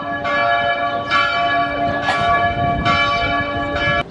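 Church bells ringing, with a new strike about every second over the ringing of the last, cutting off suddenly near the end.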